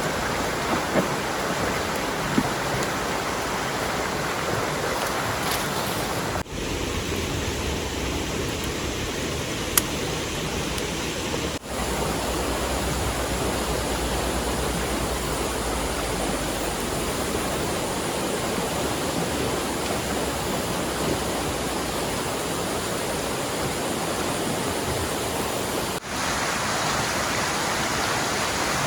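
Heavy rain and rushing river water making a steady, dense hiss, with a few sharp ticks and three brief dips in level.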